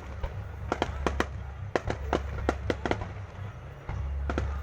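Fireworks going off: a rapid, irregular run of sharp cracks and pops, about a dozen, over a steady low rumble.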